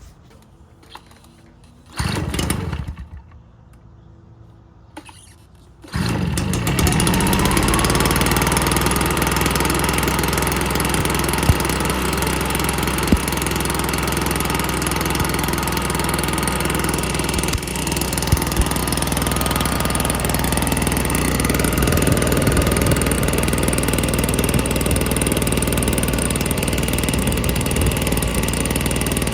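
Stihl BR420 backpack blower's two-stroke engine cold-started: a brief burst about two seconds in, then about six seconds in it catches and runs steadily.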